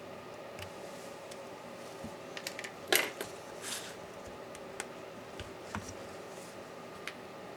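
Scattered small clicks and taps of tools and small metal parts being handled during a laptop teardown, over a steady background hum. A few light ticks lead up to one sharp click about three seconds in, followed by a brief scrape.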